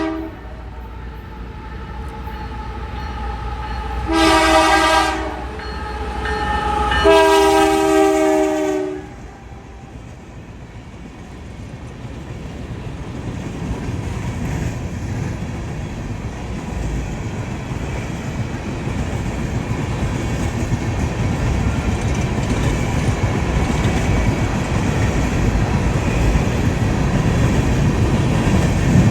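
Locomotive multi-chime air horn sounding a chord: a blast cutting off at the start, a short blast about four seconds in, then a longer one of about two seconds. This is the short-then-long end of a grade-crossing signal. After it, the train's rumble builds steadily louder as it draws near.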